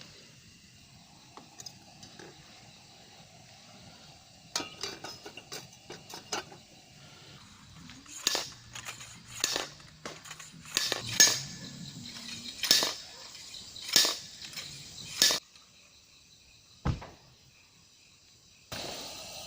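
Metal cooking utensils and cookware clinking and knocking together, a few light clinks at first and then a run of louder, irregular knocks for several seconds.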